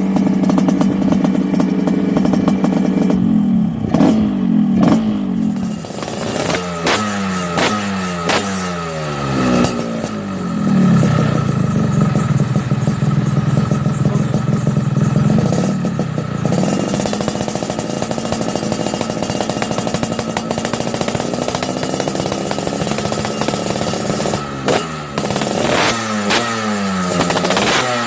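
Yamaha RX King 135 cc two-stroke single-cylinder engine running through a B-Pazz aftermarket exhaust. It is held at a steady raised speed, then revved in a run of quick throttle blips that rise and fall. It is held steady again in the middle, then blipped repeatedly once more near the end.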